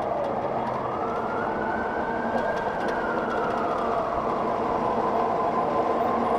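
Emergency vehicle siren sounding a slow wail: it rises in pitch over the first second and a half, holds, then slowly falls, over steady traffic noise.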